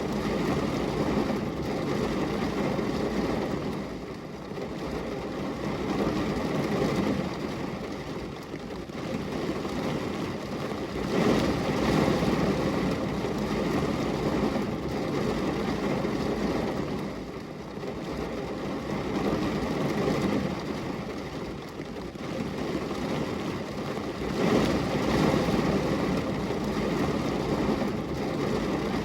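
Rain pattering on a glass window, a steady wash of noise that grows louder and eases off every few seconds.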